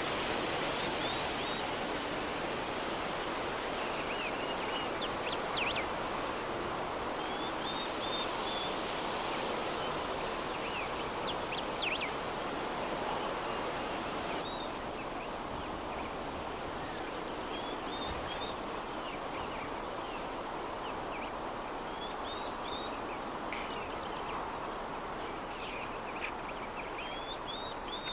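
Steady soft breeze noise with small birds chirping in short scattered bursts throughout.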